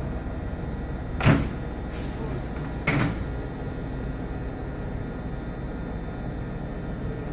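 Steady low hum of a stationary electric commuter train, with two sharp knocks about a second and a half apart, a little over a second in and near three seconds in: the train's sliding doors closing.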